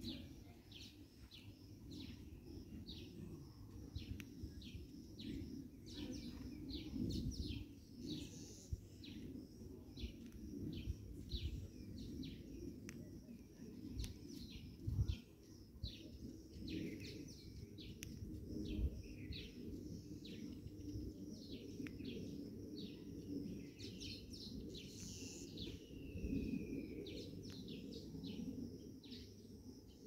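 Small birds chirping: a quick, busy run of short high chirps, with one longer falling whistled note near the end. A steady low rumble and a few soft thumps lie underneath.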